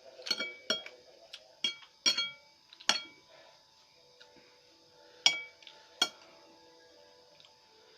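Metal cutlery clinking against a dish while eating: about eight sharp, ringing clinks, most in the first three seconds and two more around five and six seconds in.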